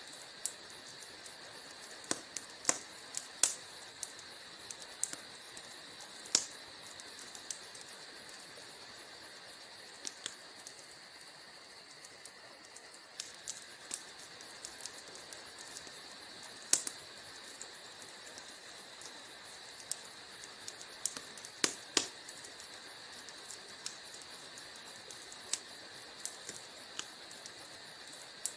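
Wood fire burning in a fireplace: irregular sharp crackles and pops over a steady hiss, with a handful of louder snaps scattered among them.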